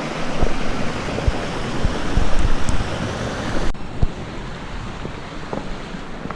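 Steady rushing of a rocky creek, with wind buffeting the microphone and a few low thumps. About three and a half seconds in, the hiss abruptly turns duller.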